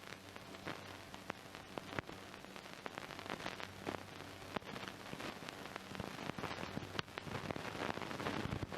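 Old film soundtrack noise: a steady hiss full of irregular crackles and pops over a low steady hum, growing a little denser and louder near the end.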